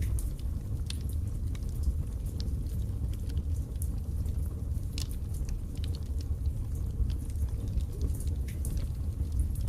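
Wood fire burning in a fireplace: a steady low rumble with frequent sharp crackles and pops, several a second.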